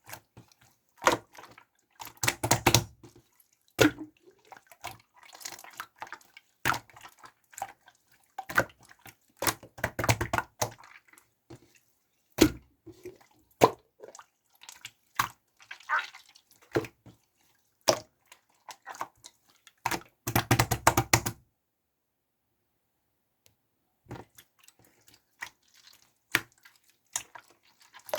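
Clear pink slime being worked, making wet, sticky clicks and pops in irregular bursts, with a short pause about two-thirds of the way through.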